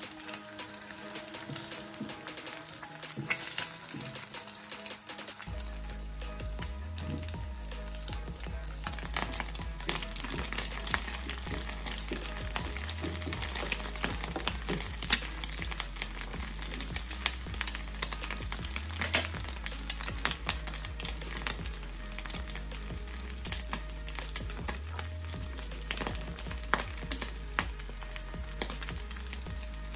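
Scrambled eggs and sliced sausage sizzling in hot oil in a frying pan, stir-fried with a wooden spatula that clicks and scrapes against the pan many times.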